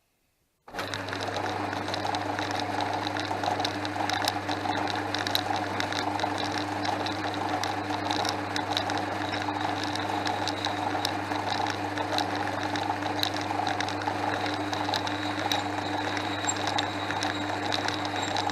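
Portass Model S mk2 metalworking lathe running steadily, its motor and drive giving a steady hum with light scattered ticks. The sound comes in abruptly about a second in.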